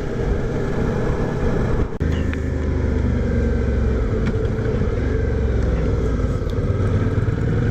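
Motorcycle engine running steadily at cruising speed under wind rush. About two seconds in there is a brief break, after which the low engine hum is stronger.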